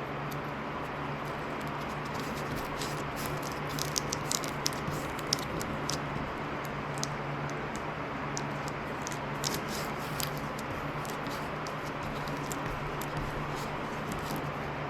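Glued foam and dried glue being peeled and scraped off by hand: scattered small crackles and scratches over a steady low hum. The glue has not bonded to the foam.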